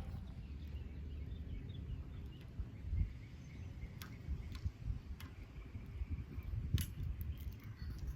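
Outdoor park ambience: an uneven low rumble with a few sharp clicks, and faint bird chirps.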